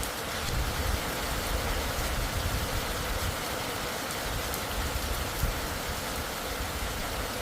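Steady rain falling, with a few faint sharp drop ticks and an uneven low rumble underneath.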